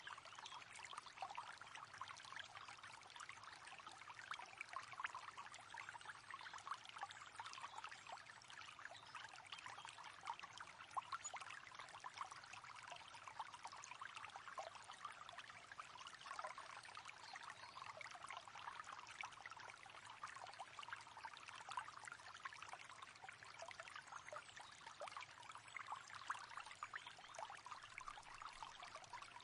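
River water babbling and trickling steadily, with a constant patter of small splashes.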